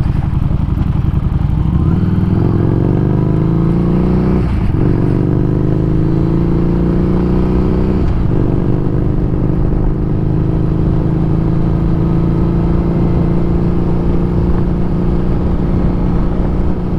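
Harley-Davidson Street Rod 750's V-twin engine accelerating in a rising pitch, with two brief breaks for upshifts about 4.5 and 8 seconds in, then holding a steady cruise. Low wind and road rumble from the gravel surface run underneath.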